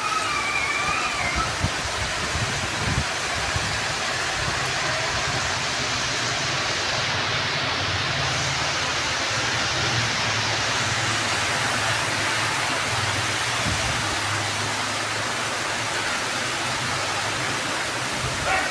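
Torrential rain pouring steadily on street and rooftops, a dense even hiss. Through the middle a low engine hum rises and fades as a motorcycle rides through the downpour.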